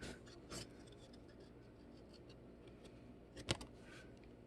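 Topps Chrome baseball cards being handled and slid against one another: soft sliding scrapes at the start and about half a second in, a few faint ticks, and one sharp click about three and a half seconds in.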